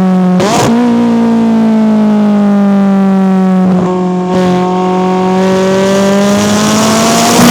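McLaren 570S twin-turbo V8 running under way through its exhaust, a steady drone whose revs ease slowly down. A brief break comes just after the start and again about four seconds in, like gear changes. After the second break the revs climb gradually.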